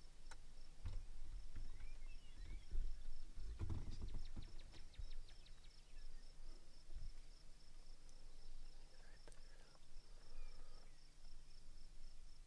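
Outdoor ambience of an insect trilling steadily in a fast, even pulse, with a few scattered bird chirps. A short, rapid rattling call comes about four seconds in.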